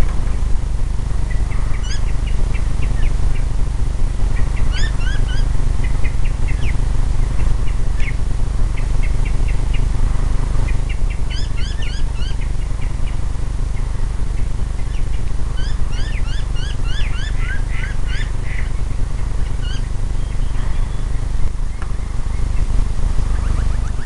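Birds calling in the treetops: several bursts of short, quick high notes, the busiest about halfway through and again a few seconds later. A loud, constant low rumble sits underneath.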